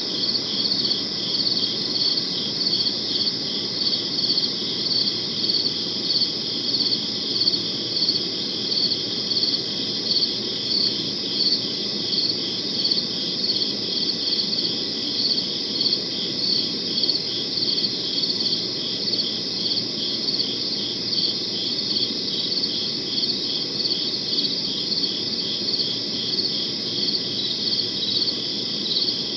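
Crickets chirping steadily in a chorus, a pulsing trill about two to three times a second, over a low steady background hiss.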